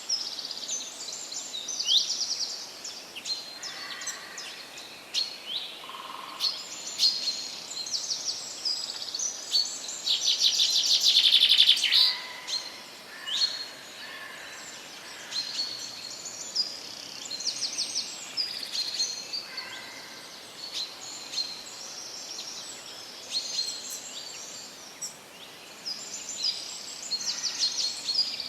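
Several songbirds chirping and singing in fast trills, one long loud trill about ten seconds in, over a steady background hiss.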